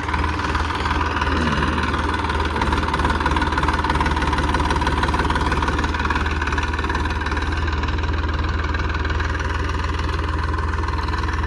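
Tractor diesel engine idling steadily, a constant low rumble.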